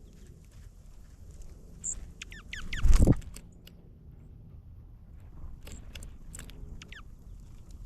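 Small birds chirping: quick notes falling in pitch, in a run about two seconds in and a few more near the end. A loud low thump comes about three seconds in.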